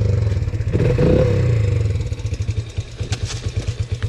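Yamaha Raptor 80's small single-cylinder four-stroke engine, just started: it is revved briefly twice, then settles into an even, pulsing idle from about two seconds in.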